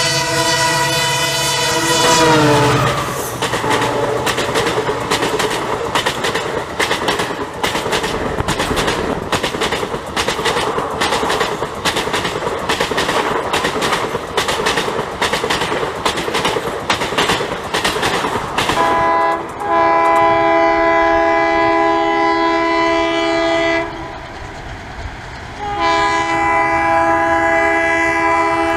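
Indian Railways diesel locomotive sounding its many-toned horn as it passes, the pitch dropping about two seconds in, then the coaches rushing by with a rapid clickety-clack of wheels over rail joints. In the later part another diesel locomotive's horn sounds in two long blasts.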